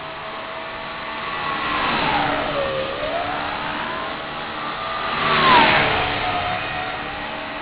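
Align T-Rex 250 SE flybarless electric RC helicopter flying, its motor and rotor whine dipping in pitch twice as it sweeps past, louder on the second pass about five and a half seconds in.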